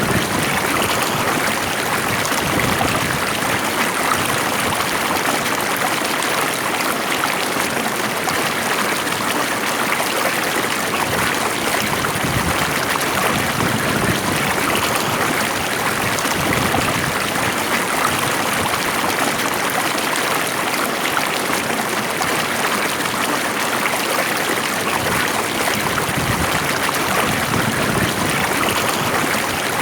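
Stream water flowing steadily over its bed, an even rushing and trickling.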